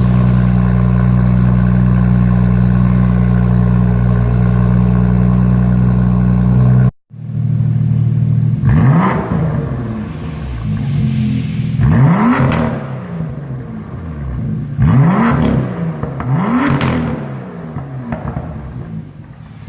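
BMW M2's turbocharged inline-six through a Fabspeed sport-cat and muffler-bypass exhaust, running at a steady idle that breaks off abruptly about seven seconds in. Then come four separate throttle blips, each revving up and dropping back.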